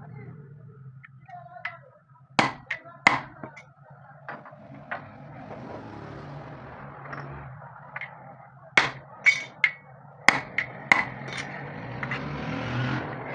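Hammer blows on metal, about a dozen irregular strikes in two clusters, over a low steady hum.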